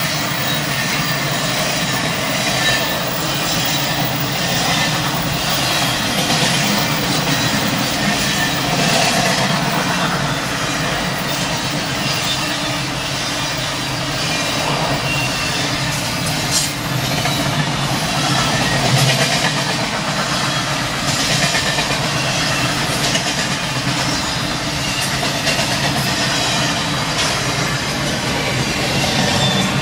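Freight train of double-stack container cars rolling past a grade crossing: a steady rumble and rattle of wheels on rails, with repeated clacks as the wheels cross rail joints, heard from inside a car.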